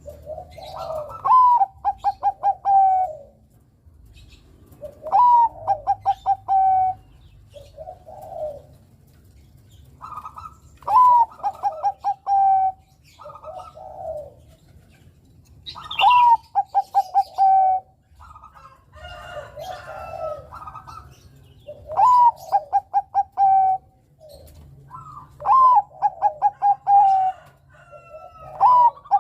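Zebra dove (perkutut, Bangkok strain) singing its cooing song. Each phrase opens with a rising note, runs into a quick string of short notes and ends on a held low coo, and it repeats about every four seconds with softer coos in between.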